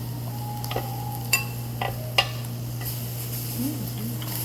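Beef sizzling on a grill, a steady frying hiss over a constant low hum, with a few sharp clicks in the first half.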